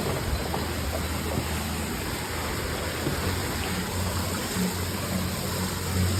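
Rushing water of a gorge stream, a steady noise, with a low hum underneath.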